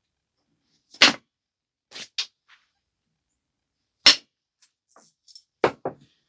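Flintknapping: sharp percussion strikes on a stone biface, about six cracks in all. The loudest come about a second in and about four seconds in, with quick pairs around two seconds and near the end, and light ticks between.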